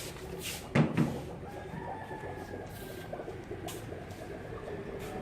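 Two sharp knocks about a second in, then a rooster crowing faintly in the background, one long, slowly falling call.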